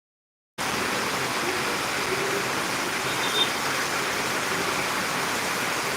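Steady hiss of heavy rain falling, cutting in abruptly about half a second in after dead silence. A brief, faint high chirp sounds about three seconds in.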